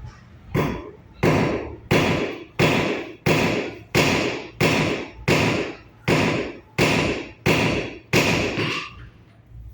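Crew of a Khmer racing long boat striking the water with their paddles in unison: twelve sharp, splashy strokes at a steady beat of about one and a half a second, stopping near the end.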